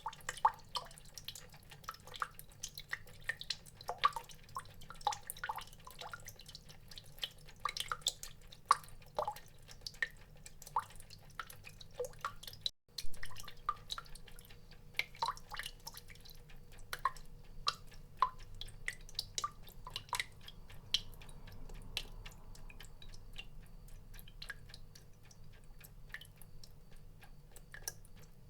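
Water drops falling one after another at an uneven pace, each a short plink with a brief pitched ring. The sound cuts out for a moment about halfway through, and the drops come more sparsely toward the end.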